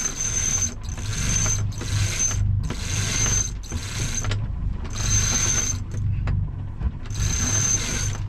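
Sailboat winch cranked in spells of about a second, its pawls ratcheting in a fast whirr with short pauses between strokes, over the steady low hum of the boat's engine.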